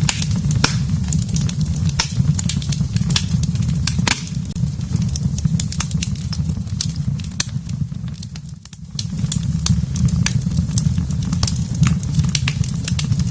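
Wood fire burning in a fireplace: frequent sharp crackles and pops over a steady low rumble of the flames, which briefly falls away about eight seconds in.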